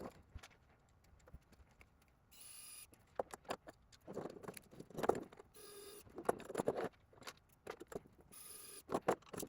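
Small clicks and knocks of 3D-printed plastic parts, screws and nuts being handled and fitted together by hand, with a few short rasping bursts about every three seconds.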